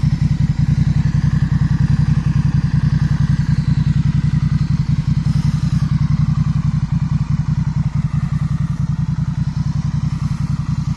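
Honda Rebel 1100's parallel-twin engine idling steadily, with a low, even pulsing exhaust beat.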